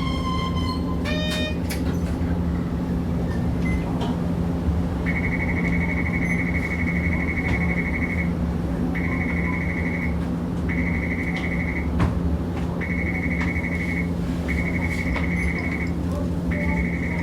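Hiroshima Electric Railway 650-type streetcar running, with a steady low hum over a rumbling noise. From about five seconds in, a high beeping tone sounds again and again in pulses of one to three seconds.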